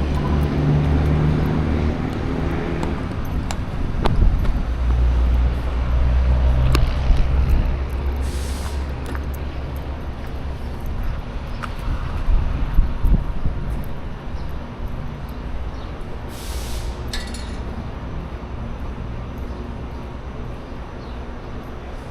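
Heavy truck engine rumbling, with two short bursts of air hiss about eight seconds apart. The rumble eases off through the second half.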